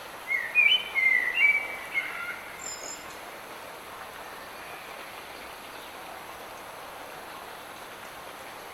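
Light rain hissing steadily in a forest. Near the start a songbird sings one short phrase of quick clear notes stepping up and down in pitch, lasting about two seconds, with a faint higher chirp just after.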